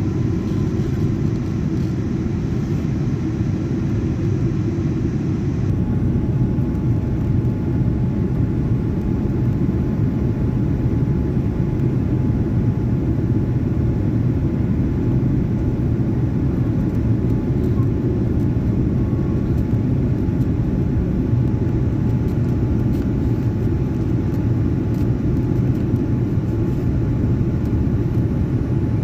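Airliner cabin noise: a steady low rumble of jet engines and airflow, with a faint steady whine. About six seconds in, the hiss lessens and the whine steps slightly lower in pitch.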